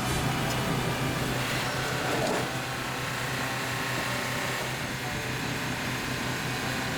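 Heavy machinery running steadily: a constant low engine hum under a noisy mechanical clatter, a little louder about two seconds in.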